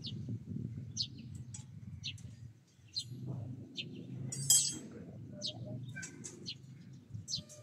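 Small birds chirping in short, high notes on and off, over a low background rumble. About four and a half seconds in there is a single sharp metal clink from steel rebar being tied with wire.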